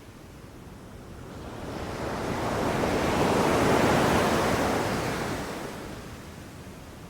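Ocean surf: a single wave swells, breaks and washes out, a rushing noise that builds over a couple of seconds, peaks about halfway through and fades away.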